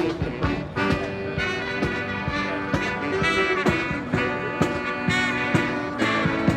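Military band playing: brass and bugles carry the tune over a steady drum beat.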